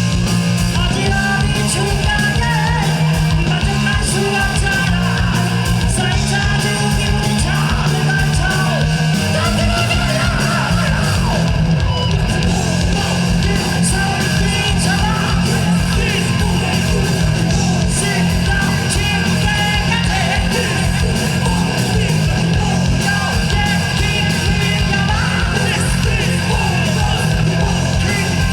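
Heavy metal band playing live at full volume: distorted electric guitars, a driving bass line and fast, dense drumming, with yelled vocals.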